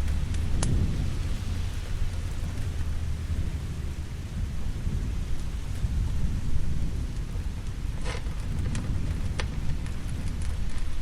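Steady heavy rain with a low, rolling thunder rumble underneath, and a few sharp crackles or pops, one just under a second in and several about eight to nine and a half seconds in.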